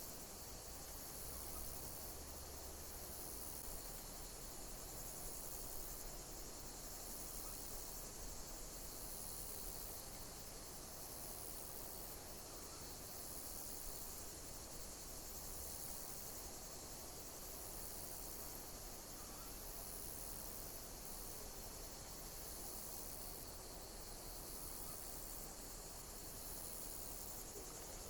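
Insects chirping steadily: a dense high-pitched hiss, with a pulsing high chirp repeating every second or two.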